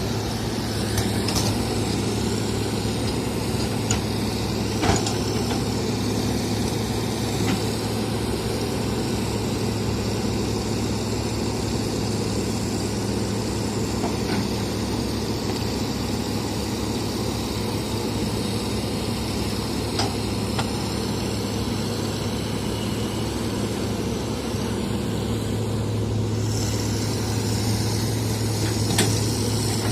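Heavy construction machine's diesel engine running steadily, with a few light knocks scattered through.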